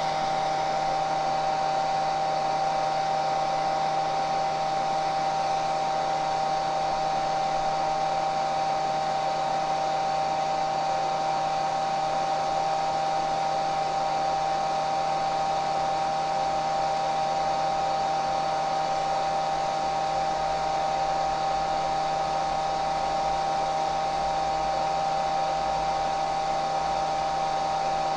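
Hair dryer running steadily: even rushing airflow with a steady motor whine.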